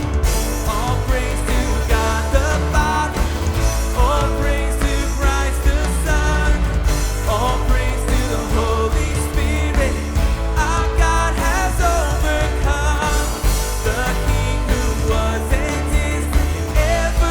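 Live worship band playing a pop-rock song at full volume: drums, bass guitar, guitar and piano, with singing carrying the melody over a steady beat.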